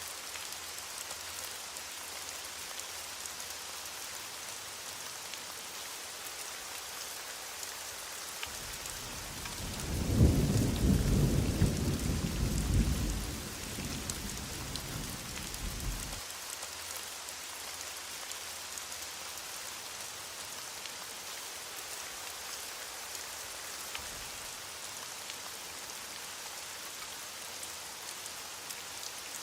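Heavy rain falling steadily, with a roll of thunder rumbling in about a third of the way through, loudest for a few seconds, then fading back to the rain alone.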